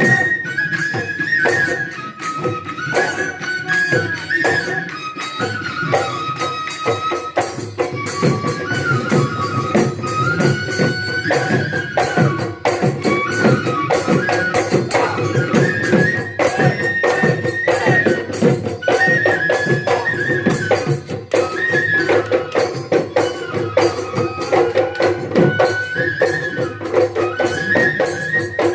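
Assamese Bihu husori folk music: a high, stepping piped melody over fast, dense drumming and cymbal strikes.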